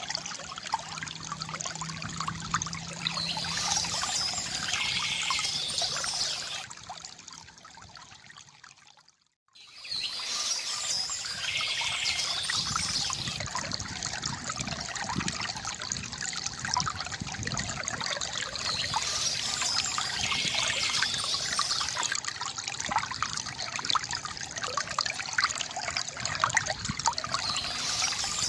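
Water trickling and splashing from a bamboo fountain, steady, with a short bird call repeating about every seven or eight seconds. About seven seconds in, the sound fades out, drops to near silence for a moment, and then comes back.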